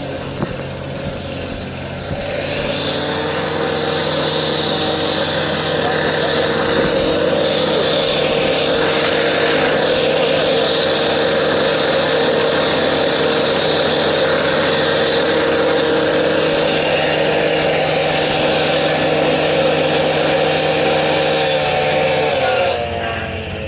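Heavy equipment engine speeding up about two seconds in, running steadily at high revs, then throttling down near the end with a falling pitch.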